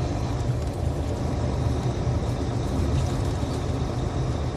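Steady low drone of a loaded semi truck's engine and road noise, heard from inside the cab while cruising on the highway at about 55 mph.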